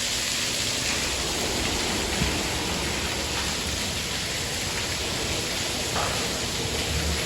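Touchless automatic car wash spraying a car during its Rain-X stage: a steady hiss of water spray from the nozzles onto the car.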